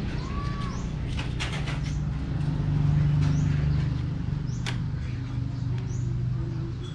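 Birds chirping with short rising calls over a steady low hum.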